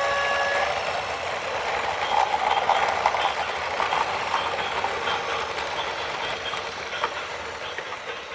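A loud multi-tone horn cuts off within the first second, followed by a steady rushing clatter with scattered knocks and clicks.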